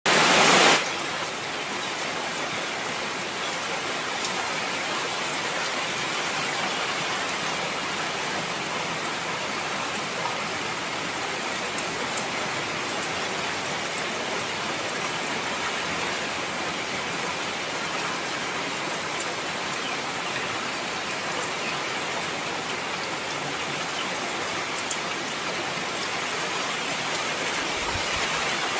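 Heavy rain falling steadily, a dense even hiss with a few faint drop ticks, starting with a brief louder rush.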